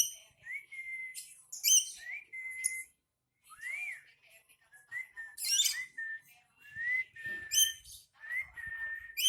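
Black-capped lory calling: a string of short whistles, each rising and then held, broken by about four loud, sharp shrieks.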